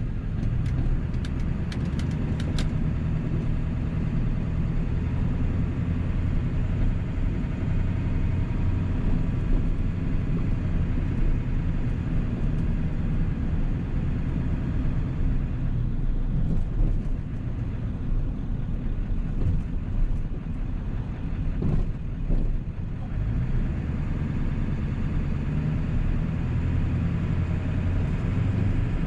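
1997 7.3-litre Powerstroke turbo-diesel V8 running steadily, heard from inside the cab with road and cabin noise, with a few light clicks in the first few seconds.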